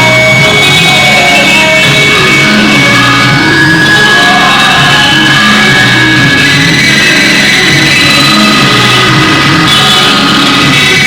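Loud rock music with distorted electric guitar and drums, played steadily at high volume.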